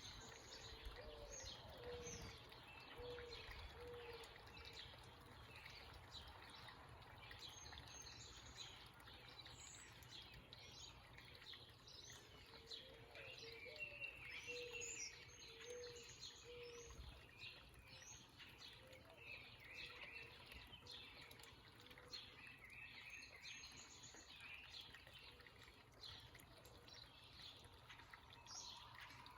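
Faint chorus of small birds chirping and calling, with a low call of four or five notes, the first sliding upward, heard twice: once near the start and again about halfway through.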